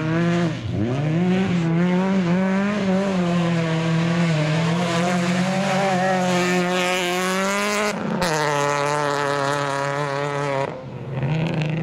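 Autocross race car engine held at high revs, its pitch dipping and climbing back near the start and near the end, and dropping suddenly about eight seconds in.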